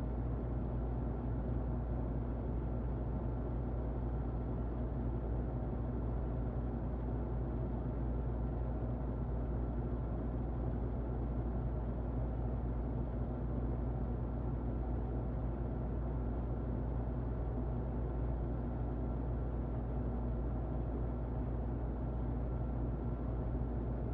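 Muffled electric fan running: steady, even white-noise hiss weighted to the low end, with a low hum and a faint thin high tone underneath.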